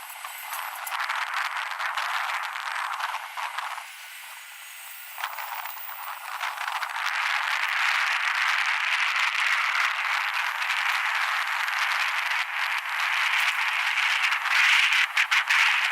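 Wind buffeting the camera microphone during an electric skateboard ride: a noisy rush full of crackling clicks that eases off briefly about four seconds in, then grows stronger and stays strong.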